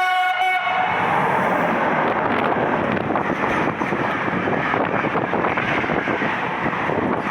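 Freight train passing at speed through a station: a steady, loud rush and rattle of wagons going by, with wind buffeting the microphone.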